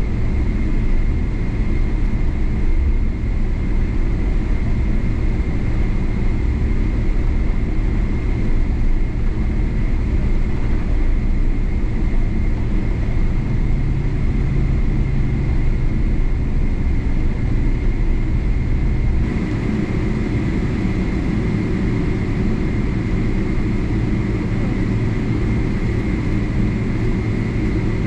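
Steady cabin noise inside a Boeing 777-300 airliner: a dense rumble and rush of engines and air system, with a faint steady whine. The deepest rumble eases about two-thirds of the way through.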